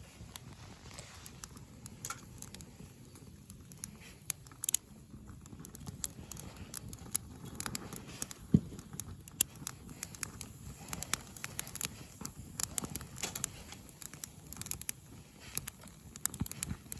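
Twig fire crackling in a small portable grill stove: irregular sharp pops and snaps, with one louder snap a little past the middle.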